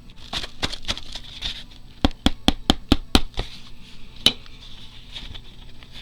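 A quick run of about six sharp taps on a work table, with one more tap a second later and light rustling of paper and craft material around them.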